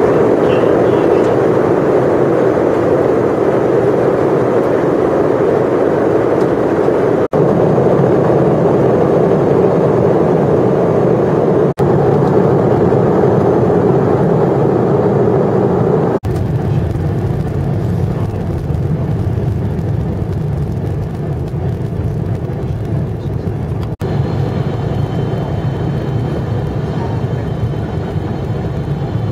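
Airliner cabin noise during landing: a loud, steady rush of airflow and jet engines. About halfway through, the sound turns lower and deeper, and faint thin high tones join it later. The noise drops out briefly a few times.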